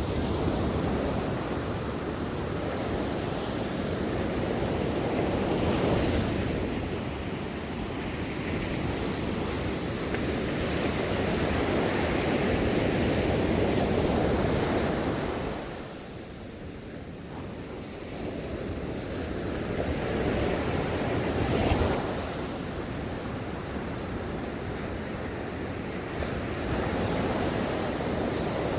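Ocean waves breaking and washing onto a shore, swelling and ebbing every several seconds, with a quieter lull about halfway through.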